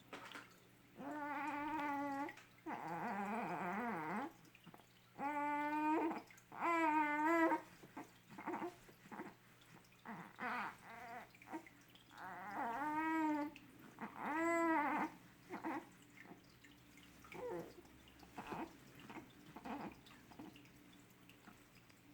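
A young baby, about two and a half months old, cooing: about six drawn-out vocal sounds that rise and fall in pitch, with pauses between them.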